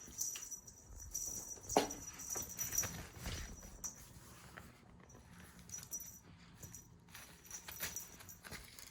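A cat scampering and pouncing while playing: scattered light taps and scuffles, with a sharper knock about two seconds in.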